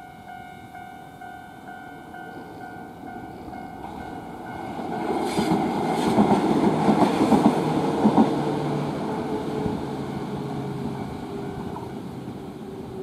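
Level crossing alarm ringing in a steady repeating pulse, then the Tama Densha electric train passes from about four seconds in, its wheels clacking over rail joints, loudest around the middle. A falling motor whine follows as it moves away and fades.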